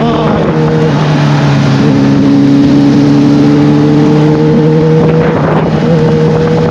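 Sport motorcycle engine running at a steady pitch while riding, heard loud and close with an open, raw exhaust.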